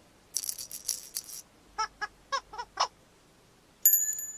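Children's TV sound effects: a brief high rustling flurry, then five short squeaky, honk-like toots, and a bright, high ringing chime near the end.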